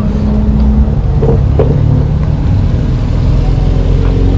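Subaru's engine running steadily close by, with no rise or fall in pitch.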